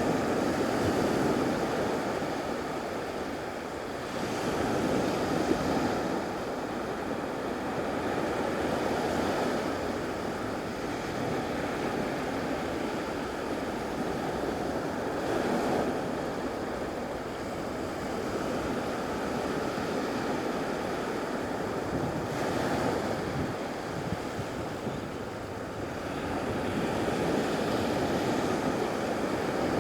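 Ocean waves breaking and washing ashore, the noise swelling and easing every few seconds.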